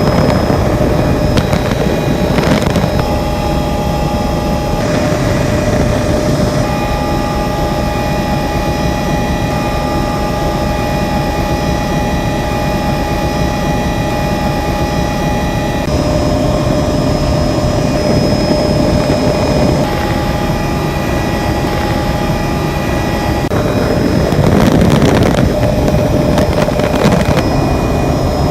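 Helicopter in flight: a steady, loud drone from the rotor and turbine engine, with a constant high whine over it.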